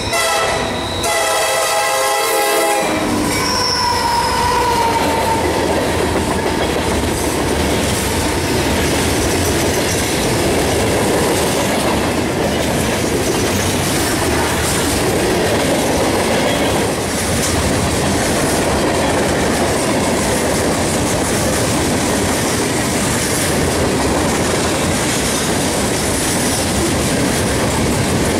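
A CSX freight locomotive's horn sounds as the train approaches and stops about three seconds in. After that comes a steady rumble and clickety-clack of the locomotives and a string of hopper cars rolling past close by.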